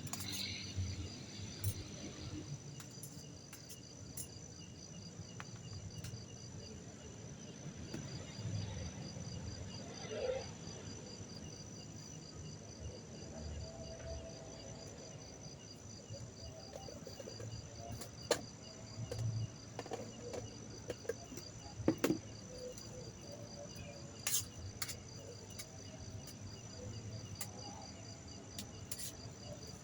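Crickets chirping steadily in a fast, even pulse, with a few short sharp clicks standing out now and then.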